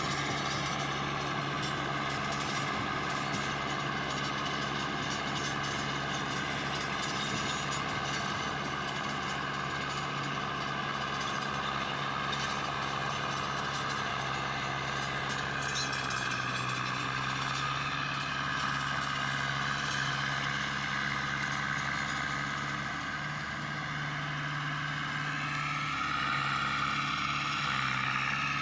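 Mahindra Arjun Novo 605 DI tractor's four-cylinder diesel engine running at a steady speed, its note rising near the end.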